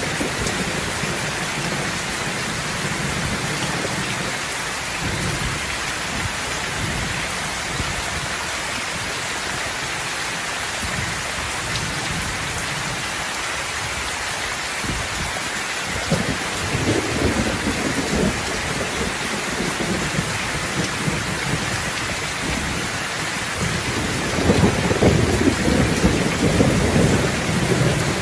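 Steady heavy rain in a thunderstorm, with rolling thunder rumbling about halfway through and again, louder, near the end.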